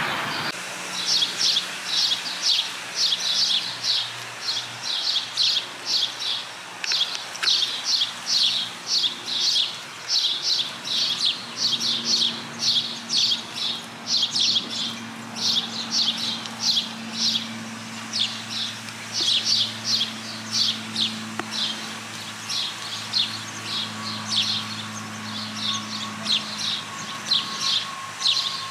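A songbird chirping over and over, with quick, high, sharp chirps coming in rapid clusters of several a second. A faint low steady hum lies underneath.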